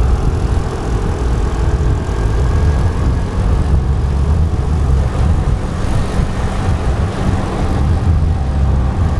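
Steady low rumble of a moving scooter ride in traffic, with the road and vehicle noise running on without a break.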